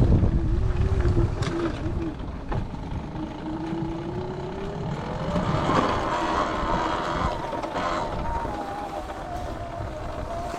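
Electric dirt bike's motor whining while riding, its pitch climbing as it speeds up a few seconds in, then slowly falling near the end. Wind rumbles on the microphone at the start.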